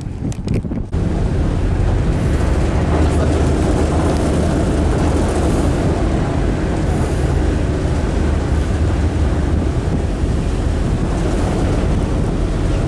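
Car ferry under way: a loud, steady low rumble from the ship's engines with a rushing noise over it, coming in abruptly about a second in.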